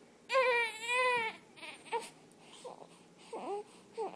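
Baby crying: one long wail about half a second in, then a string of short whimpers and fussing sounds with pauses between them.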